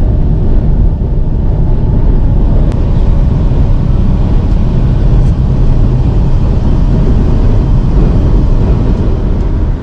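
Semi truck on the road, a loud steady low rumble of engine and road noise.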